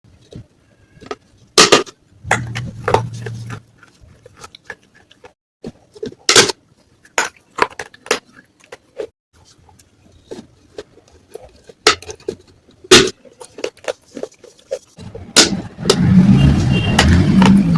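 Pieces of baked clay matka (earthen pot) cracking and crunching in sharp, separate snaps, with a louder stretch of continuous crunching near the end.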